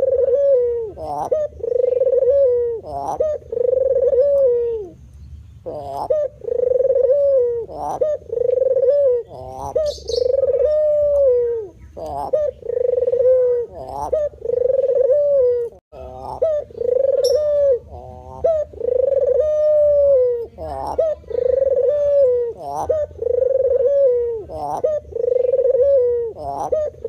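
White spotted dove (terkukur putih) cooing over and over. Its low coo phrases repeat about once a second, with a few short breaks.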